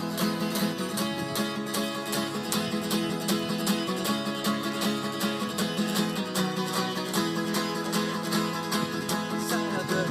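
Acoustic guitar strummed in a steady rhythm: an instrumental break between sung verses.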